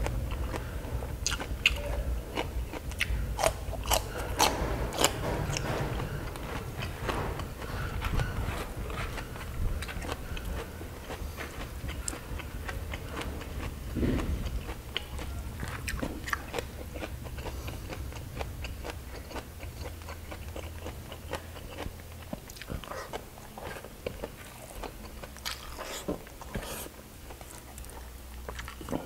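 A person chewing with wet mouth sounds and crisp crunches of raw cucumber. The crunches come thick for the first six seconds or so, then grow sparser.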